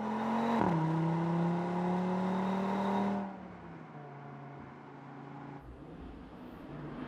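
Audi RS3's five-cylinder engine and sport exhaust under hard acceleration: the note drops sharply at an upshift about half a second in, then climbs steadily. About three seconds in it falls away to a quieter, steady engine note.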